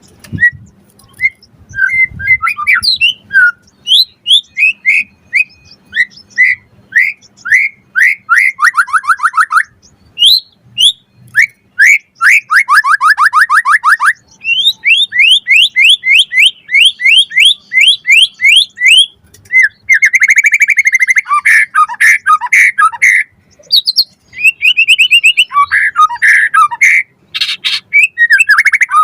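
White-rumped shama (murai batu) singing loudly and continuously: fast runs of short, sharp, quickly repeated notes and trills, alternating with varied whistled phrases and brief pauses.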